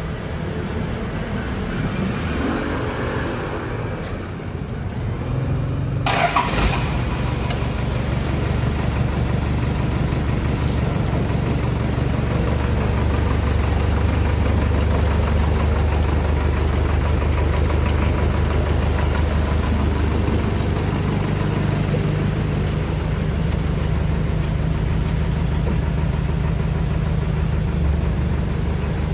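Isuzu 4x4 truck's diesel engine running. It steps up in level about six seconds in, with a brief sharp noise, then runs steadily, with a shift in pitch about twenty seconds in.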